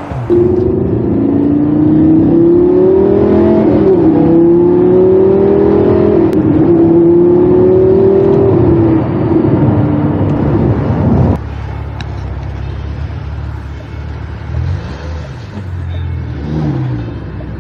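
Lamborghini Gallardo's V10 heard from inside the cabin, accelerating hard, its pitch climbing and falling back at upshifts about four, six and nine seconds in. About eleven seconds in it cuts off suddenly to a much quieter low engine rumble at low speed.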